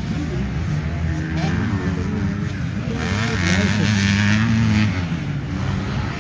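Dirt bike engines running and revving during a motocross race, the pitch rising and falling with the throttle, louder for a couple of seconds about three seconds in as a bike comes close.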